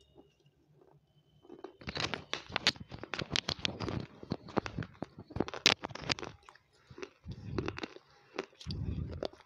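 A person crunching and chewing crumbly food with the mouth right at a clip-on microphone. A dense run of sharp crackling crunches starts about two seconds in, and duller, deeper chewing sounds come near the end.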